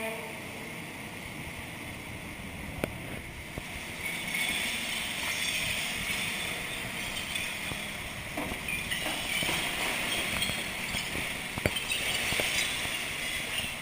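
CCC garbage truck with an EZ-Pak front loader working: a steady hiss-like mechanical noise that grows louder about four seconds in, with a few sharp metallic clicks and clanks.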